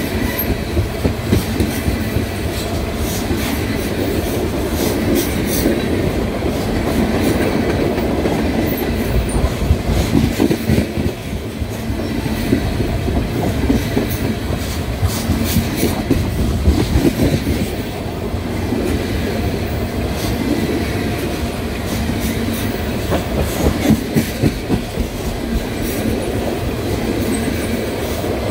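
Tank cars of an oil train rolling past close by: a steady rumble of steel wheels on rail, with repeated clacks as the wheels cross rail joints.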